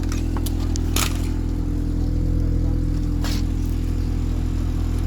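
Toyota Sera's 1.5-litre four-cylinder engine idling steadily with a low even hum, with two short clicks about one and three seconds in.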